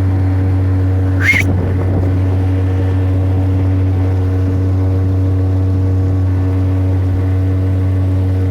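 An engine running at a steady, even speed, a constant low drone. About a second in there is a brief rising chirp.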